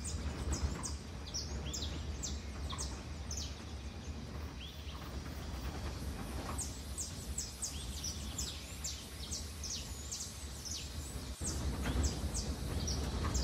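Birds chirping: many short, high chirps, scattered irregularly, over a steady low hum.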